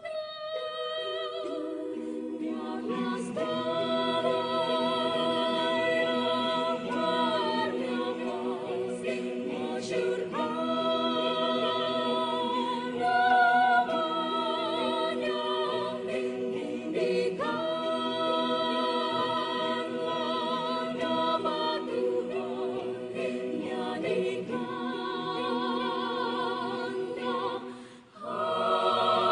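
A choir singing a cappella in several-part harmony, sustained chords changing every few seconds, with a short break for breath near the end.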